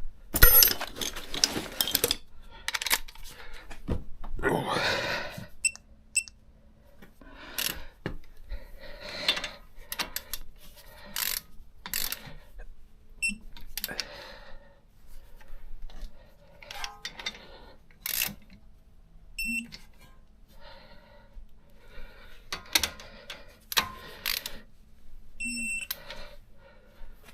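Hand tools and metal brake parts clicking, knocking and scraping in irregular bursts during a front brake and caliper job, with two short electronic beeps, one about two-thirds of the way through and one near the end.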